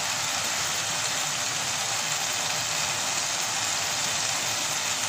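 Chicken and pear curry sizzling in the pan on the stove: a steady, even hiss.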